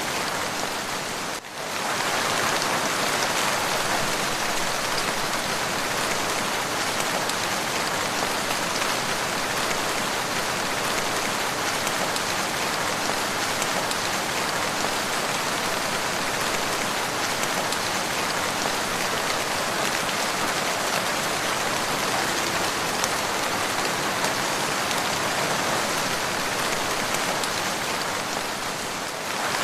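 Steady rain falling, an even hiss of drops, with a brief dip in level about a second and a half in.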